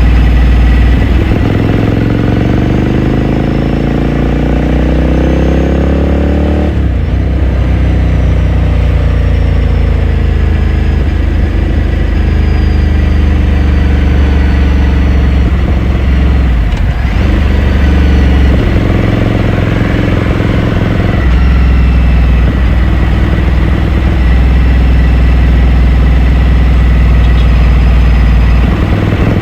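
2018 Ducati Scrambler Sixty2's 399 cc air-cooled L-twin engine and exhaust under riding load. It rises steadily in pitch while accelerating for several seconds and drops abruptly about seven seconds in as the throttle is closed. It then runs at varying speed, picking up again briefly about two-thirds of the way through before settling into steadier cruising.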